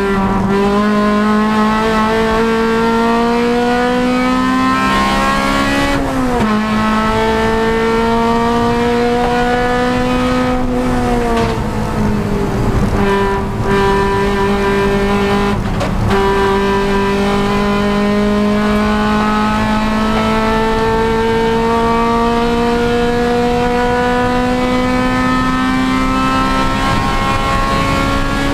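Honda Civic Si race car's four-cylinder engine pulling hard under load, its pitch climbing slowly through each gear. The pitch dips briefly a few times, at shifts or lifts, then climbs again.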